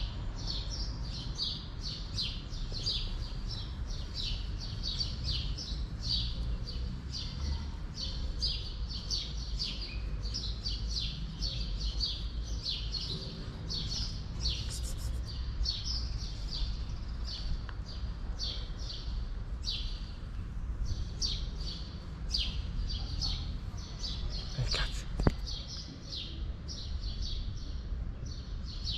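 Small birds chirping steadily, a quick run of short, high chirps, over a low background rumble, with one brief knock near the end.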